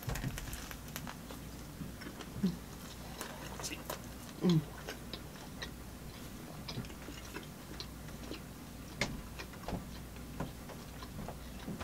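Close-miked chewing of an untoasted chicken bacon ranch sub: a scattered run of small wet mouth clicks and soft crunches. Two short falling 'mm' hums about two and a half and four and a half seconds in.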